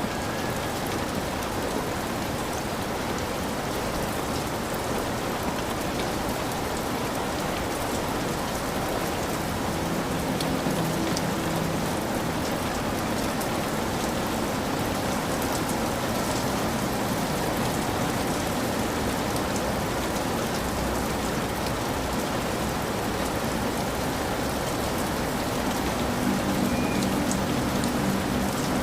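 Heavy rain falling steadily on a hut roof, with scattered drips ticking through it. A low rumble comes in about ten seconds in and again near the end.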